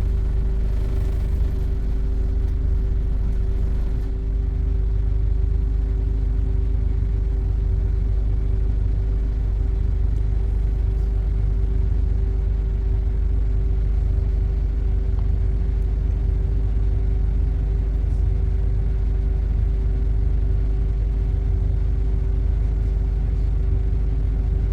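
Steady low rumble of a road vehicle in traffic, with a constant droning hum over it and no sudden events.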